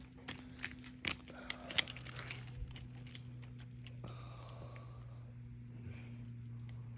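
Crackling and crunching of dry twigs and brush underfoot, a quick run of sharp snaps over the first two seconds or so, then dying away. A low steady hum lies underneath throughout.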